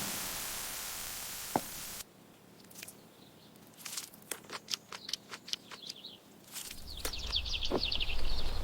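Steady hiss of static that cuts off suddenly about two seconds in, followed by scattered light clicks and quick high-pitched chirping, with a low hum coming in near the end.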